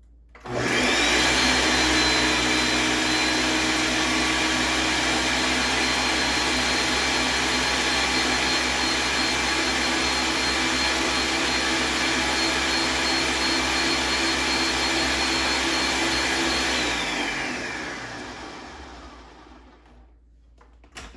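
Electric blender running, blending watermelon and cucumber chunks with mint, ginger and water. Its motor whine spins up quickly at the start, holds steady for about sixteen seconds, then drops in pitch and fades as the blender is switched off and winds down.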